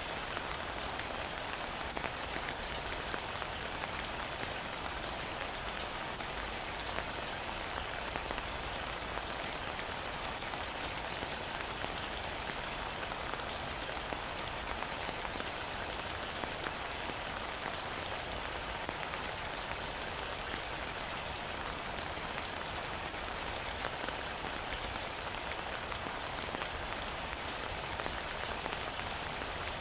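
Heavy rain falling steadily, an even hiss of many drops, with faint single ticks every few seconds.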